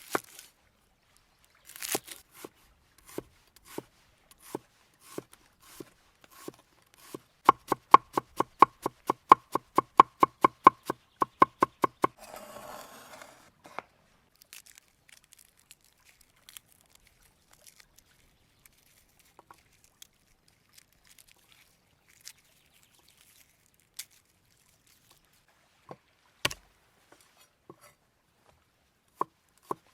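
Knife chopping on a cutting board: scattered strokes at first, then a fast, even run of about four to five chops a second, followed by a brief scraping rustle and a few light taps.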